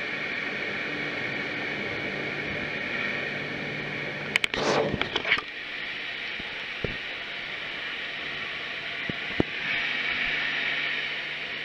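Steady running noise of a moving passenger train, a hiss with a low hum under it. About four and a half seconds in there is a short burst of clattering clicks, and later two single sharp clicks.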